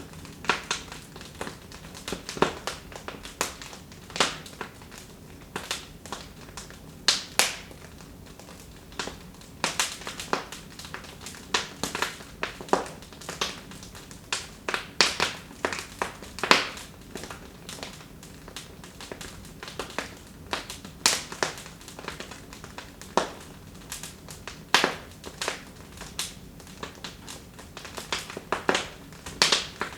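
Wood fire crackling in a fireplace: irregular sharp pops and snaps, several a second, over a low, steady hiss.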